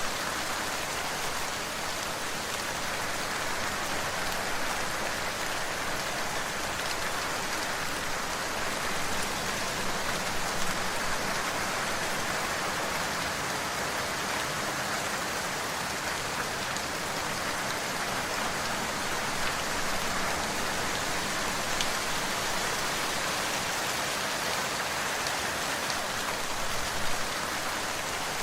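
Steady rain falling on a surface: an even hiss with scattered drops pattering, no thunder.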